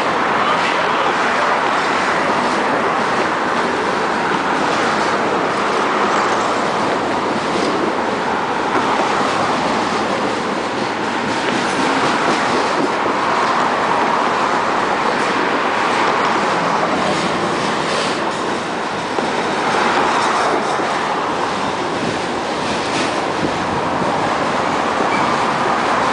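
Freight train of intermodal well cars loaded with containers rolling steadily past just below: a loud, continuous rumble of steel wheels on rail with scattered clicks.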